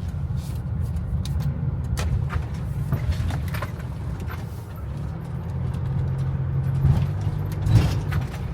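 Toyota Hiace van running at low speed, a steady low engine drone with scattered light clicks and knocks.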